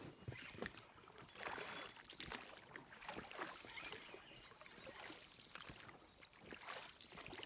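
Small boat on the water with scattered light knocks and clicks and a brief rustle about a second and a half in, as a wobbler snagged in a low bush is worked free.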